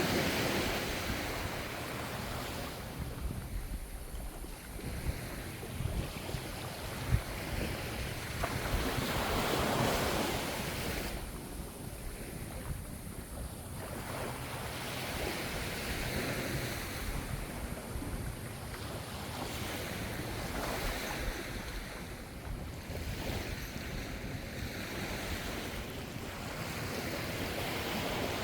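Ocean waves breaking gently on the shore, the surf swelling and fading every few seconds over a steady low rumble, with wind buffeting the microphone.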